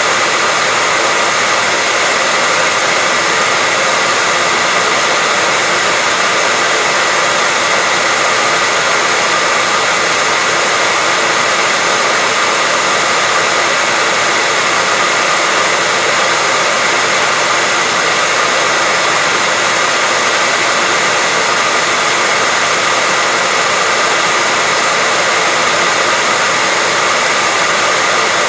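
Hair dryer running steadily: an even, unchanging rush of air and motor noise with a faint steady whine on top.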